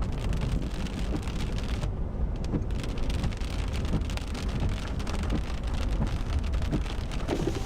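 Rain pattering on a moving car: many sharp raindrop ticks over a steady low rumble from the road and engine.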